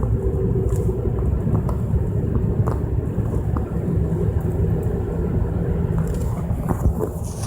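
Mitsubishi Pajero Mini engine and road noise while driving, a steady low rumble, with faint scattered crackling ticks that come from the recording itself.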